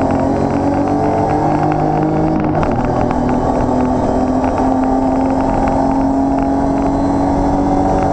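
Racing BMW's engine heard from inside the cabin, running hard under acceleration, with a quick upshift about two and a half seconds in, after which the revs climb steadily again.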